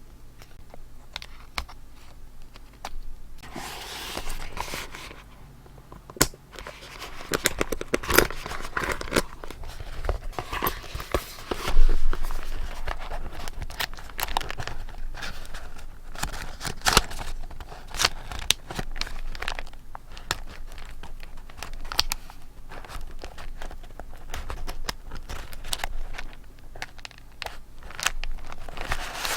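Paper being handled for scrapbooking: crinkling and rustling with many small sharp taps and clicks. There is a longer rustle about four seconds in and a louder knock about twelve seconds in.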